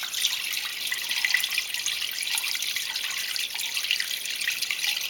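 Water steadily running and splashing out of a hole in a basement floor, a continuous trickling splash.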